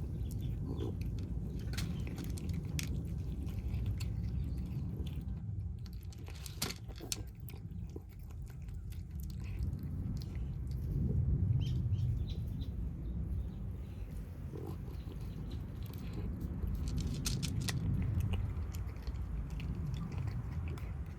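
Cats chewing and crunching their food, with scattered sharp crunches over a steady low rumble.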